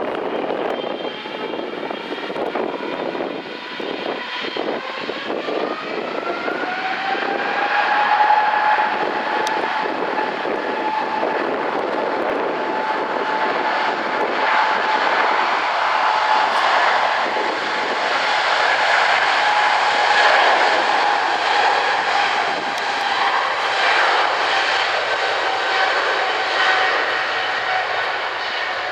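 Boeing 777-300ER's twin GE90-115B turbofan engines at takeoff power: a loud jet roar with a whine that rises over the first several seconds and then holds steady.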